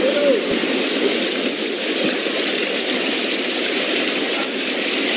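Steady rush of water from heavy tropical rain and a swollen, fast-flowing river.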